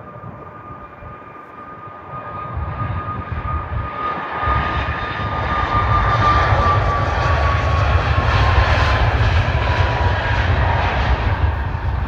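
Boeing 737 MAX 8's CFM LEAP-1B turbofan engines at takeoff power: a roar that builds and peaks, with a high whine that falls in pitch as the jet passes.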